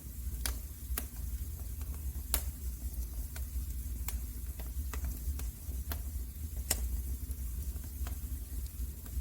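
Wood fire crackling in a fireplace: sharp, irregular pops, about a dozen, over a low steady rumble and soft hiss.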